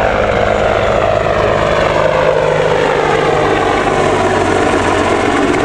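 British Army Air Corps Apache attack helicopter flying, its rotors and twin turboshaft engines making a loud, steady noise.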